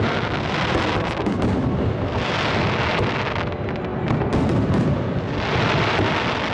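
Fireworks display: a continuous rumbling barrage of bursts and bangs, with two swells of dense hissing crackle, the first about two seconds in and the second near the end.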